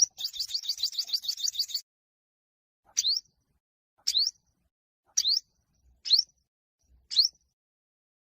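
Yellow-bellied sunbird singing: a fast, high trill of about nine notes a second for the first second and a half, then single sharp, upward-sweeping chirps about once a second.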